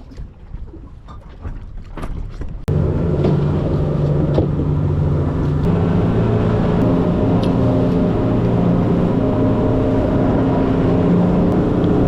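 An engine running steadily, its hum stepping slightly in pitch now and then. It starts abruptly about two and a half seconds in, after a quieter stretch of light clicks and ticks.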